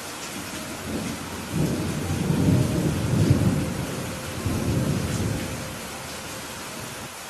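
Steady heavy rain with a long roll of thunder that builds about a second and a half in, rumbles through the middle in two swells, and dies away near the end.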